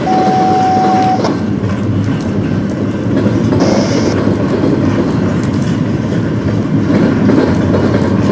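Train passing close by, a steady heavy rumble with the clatter of its wheels over the rails. A single steady tone is heard for about the first second.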